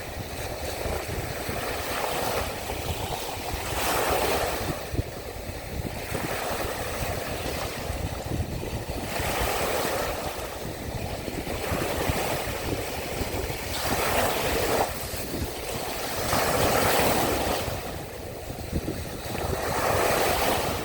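Sea waves washing onto the shore, a swell of surf every few seconds, with a steady low wind rumble on the microphone.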